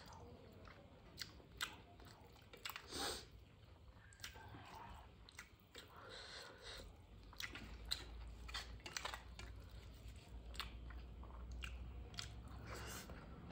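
Close-miked chewing and wet mouth smacks of someone eating rice and curry by hand, with scattered soft clicks throughout and a louder burst about three seconds in.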